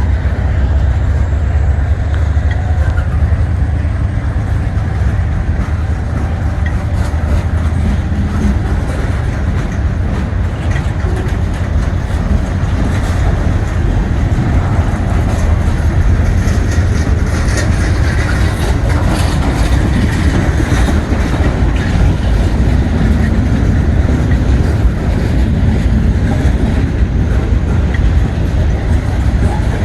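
Norfolk Southern freight train rolling past at close range: a steady heavy rumble of the cars, with a run of sharp wheel clicks over the rail joints in the middle.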